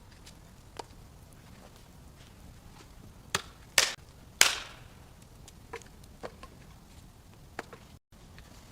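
Sharp knocks and cracks of dry wood being chopped or broken, irregular, with three loud ones close together around the middle and a few fainter ones before and after.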